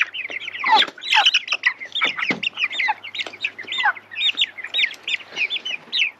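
Flock of three-week-old Cornish cross broiler chicks peeping: many short, high-pitched peeps, several a second and overlapping.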